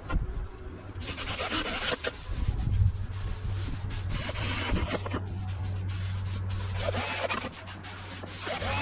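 Rubbing and scraping strokes, with a steady low hum underneath.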